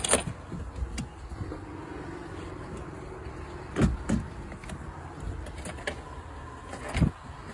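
A few sharp clicks and a faint electric whir lasting about a second and a half, with no engine catching: a try at starting the boat that does not fire.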